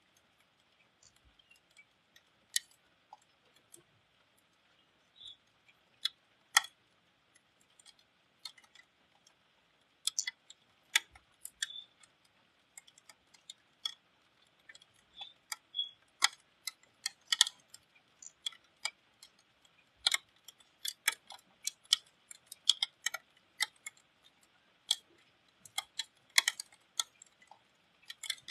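Raindrops ticking irregularly on a hard surface close to the microphone over a faint steady hiss, the drops coming more often in the second half.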